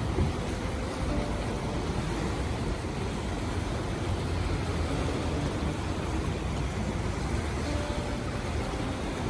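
Steady rush of fast-flowing whitewater, with low wind rumble on the microphone.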